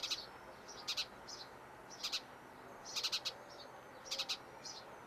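Small birds chirping: short, high chirps in quick groups of two to four, repeating about every second, over a faint steady hiss.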